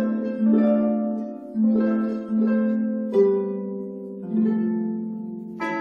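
Background music: a slow melody on a plucked string instrument, each note struck and left to ring and fade, with a fuller chord entering near the end.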